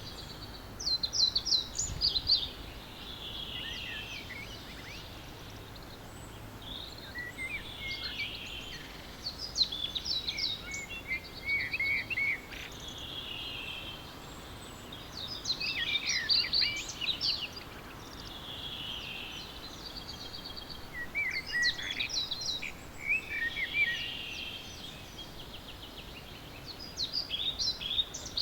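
Songbirds singing in the early morning: short bursts of quick, high notes recur every six or seven seconds over a steady background hiss.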